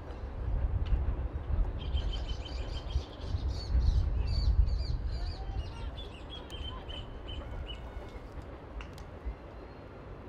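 Birds calling in quick runs of short chirps, heard for a few seconds from about two seconds in, over a low rumble.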